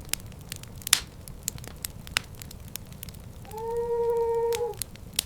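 Irregular sharp crackles and pops over a low rumble, with one short, steady pitched cry lasting about a second, starting about three and a half seconds in.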